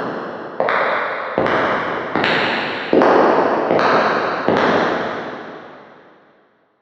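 Footsteps at a steady walking pace, about one every 0.8 seconds, each with a long echoing tail. The last step comes about four and a half seconds in, and its echo then fades away.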